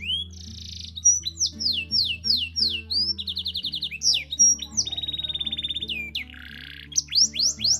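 Canary singing a long, varied song: runs of repeated sweeping notes, two fast even trills and a buzzy roll, with no break. Soft music with low sustained notes plays underneath.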